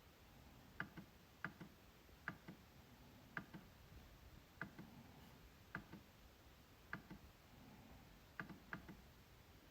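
MacBook trackpad being clicked, about ten clicks at uneven intervals. Each click is a sharp tick followed closely by a softer one, with two clicks in quick succession near the end.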